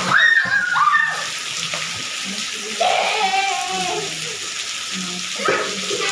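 Steady rush of pouring, splashing rainwater, with children's shouts and calls over it.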